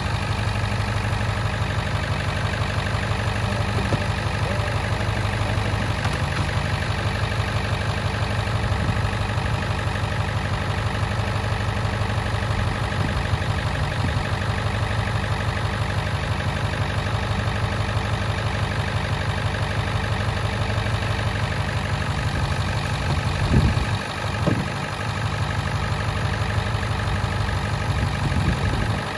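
Ford 7.3 Powerstroke V8 turbo-diesel idling steadily while it warms up in the cold, with a couple of brief knocks about 24 seconds in.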